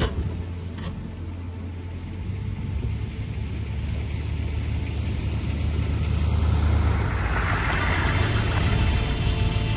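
Car engine running steadily at low speed, growing gradually louder, with a hiss that builds about seven seconds in.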